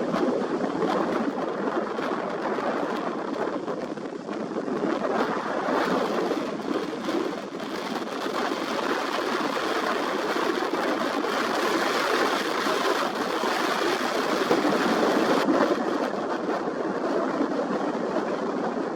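Strong wind and ocean surf: a steady rushing noise that swells and eases slowly, with wind buffeting the microphone.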